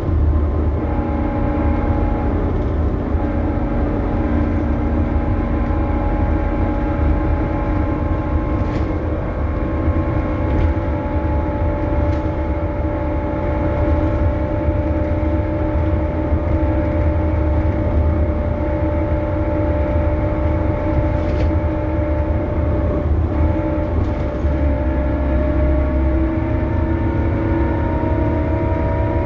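Scania K280UB city bus with ZF Ecomat automatic gearbox driving: a loud, steady low engine rumble under several whining tones that hold steady and rise slowly near the end as it picks up speed, with a few faint clicks.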